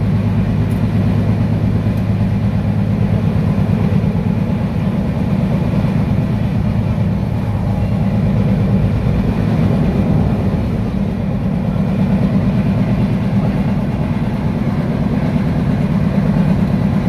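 A large engine running steadily: a loud, even, low drone with a constant pitch.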